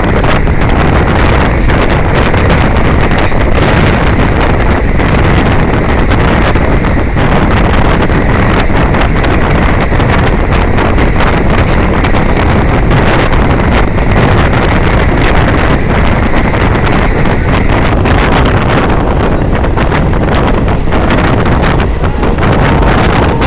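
Loud, steady wind buffeting the microphone, with a faint high steady tone underneath.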